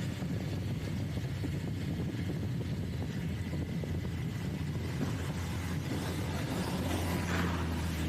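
Motorcycle engine running steadily while riding along the road, a continuous low rumble with road and wind noise; it grows slightly louder near the end.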